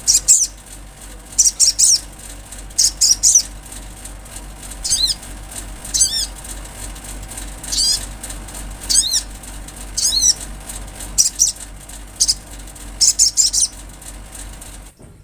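Sunbird (sogok ontong) singing: rapid clusters of thin, very high chirps, many sweeping down in pitch, repeated every second or so over a steady low hum.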